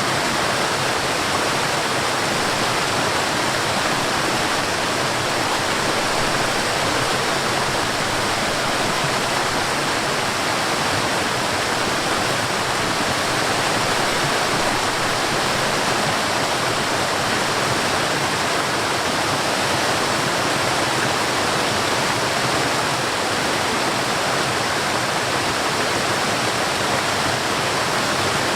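Forest waterfall: water falling and rushing steadily, an even hiss-like roar that does not change.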